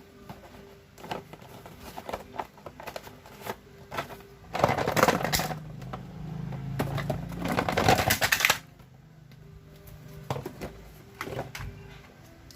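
Irregular clicks and taps of small parts being handled and fitted together while a model airplane is assembled, with a louder stretch of dense rattling and rubbing over a low hum in the middle.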